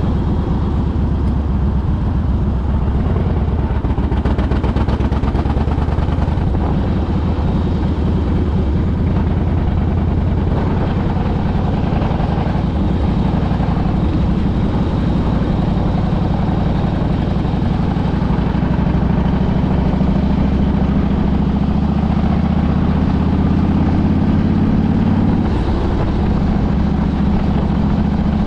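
Harley-Davidson V-twin motorcycle engine running under way, a steady low note throughout. Its pitch climbs slowly in the second half and drops suddenly near the end.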